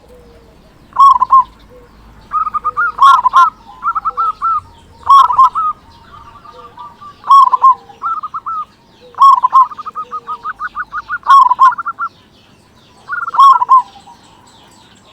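Zebra dove (perkutut) singing its cooing song, loud phrases about every two seconds with quick runs of softer notes between them.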